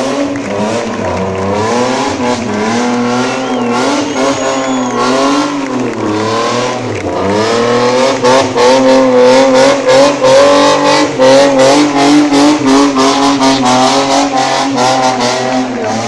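Rear-wheel-drive competition car's engine revving hard, its pitch rising and falling with the throttle; from about eight seconds in it gets louder and pulses rapidly, with some tyre squeal.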